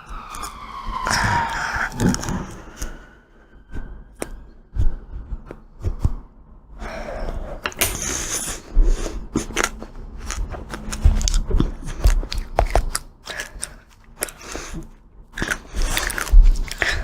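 Close-miked crunching, biting and chewing of ice cream with a crackly chocolate coating: many sharp irregular cracks and crackles, with a few louder crunches. An emergency vehicle siren fades away, falling in pitch, in the first two seconds.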